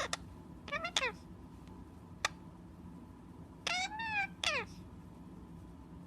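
Meowing: three cat-like meows, each falling in pitch, the middle one longer and rising before it falls. A single sharp click comes a little past two seconds in.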